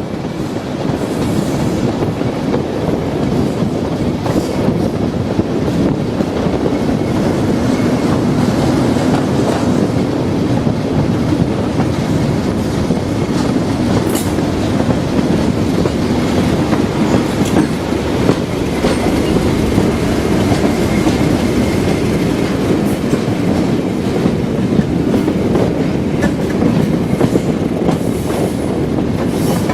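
Diesel-hauled heritage train running along the track with a steady rumble and wheels clacking over the rail joints.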